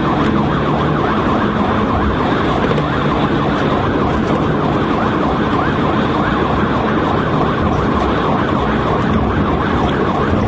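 Police cruiser siren running in a fast, repeating up-and-down yelp during a high-speed highway pursuit, over steady engine and road rumble.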